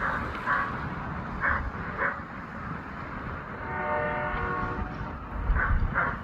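Diesel train locomotives running with a steady low rumble, a brief horn sounding about four seconds in, and several short high rings spaced about half a second apart.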